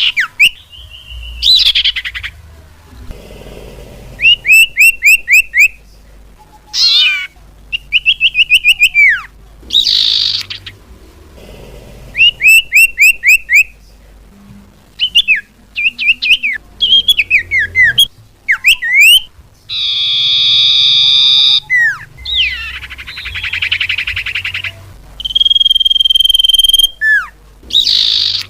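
Bird-lure recording of common iora (sirtu/cipoh) calls: loud, varied whistles, including quick series of four to six down-slurred notes, a harsh buzzy call, a trill and one long steady whistle. The calls are spliced together with abrupt cuts between them.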